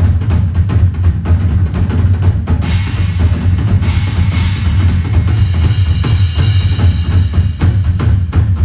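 A live drum kit played as a solo: rapid kick-drum and snare strokes, with a sustained cymbal wash from about two and a half seconds in until near the end.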